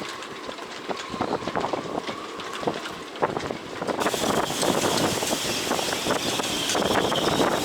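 Squall wind gusting over the microphone, with many small knocks and rattles. About four seconds in the gust strengthens and a high whistle sets in.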